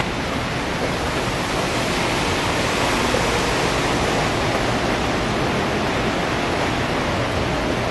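Steady rain falling on wet pavement, an even hiss.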